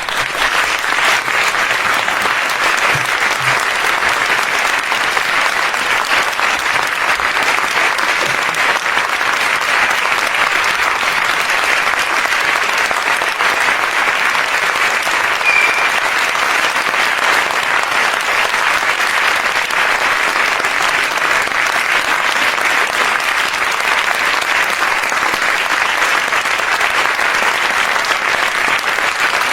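A large crowd applauding: dense, steady clapping that swells up in the first second and then holds at full strength, with a short high note cutting through about halfway through.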